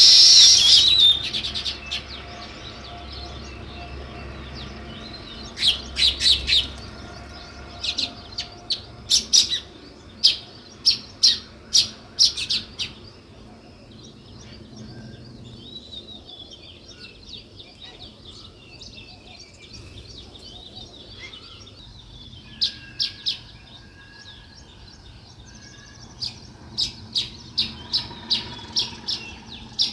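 Small songbirds chirping: a dense burst of chirps at the start, then bouts of short, sharp chirps in quick series, with softer calls in the quieter stretches between.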